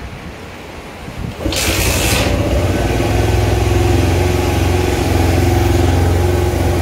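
A TVS Sport's single-cylinder four-stroke engine, freshly rebuilt to cure white smoke, starts about a second and a half in with a short burst and then runs steadily at a slightly fast idle, the throttle set a little high.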